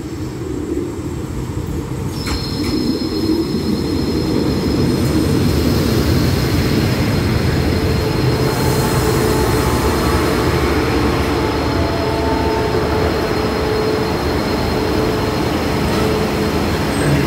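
A passenger train pulls into the station, its loud running-gear rumble building over the first few seconds and then holding steady. From about two seconds in, a thin steady high squeal sounds over the rumble as the train brakes to a halt.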